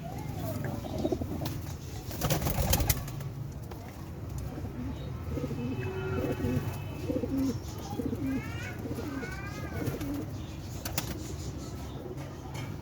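Lahori Sherazi pigeons cooing in low, repeated notes, with a few higher chirps near the middle. A cluster of sharp knocks sounds a couple of seconds in and another single knock near the end.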